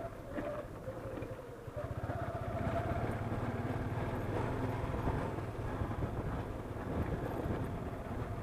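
Motorcycle engine running steadily as the bike is ridden, getting louder about two seconds in.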